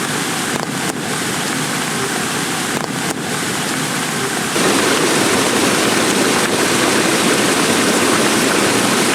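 Heavy rain pouring down in a steady hiss. It gets suddenly louder and fuller about four and a half seconds in.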